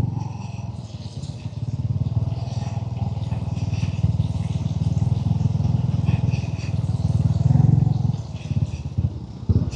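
Motorcycle engine running steadily at low speed with a low, pulsing rumble, easing off near the end.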